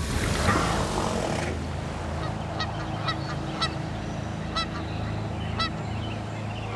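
A brief rush of noise, then several short pitched animal calls, honk-like and spaced irregularly, over a steady low hum.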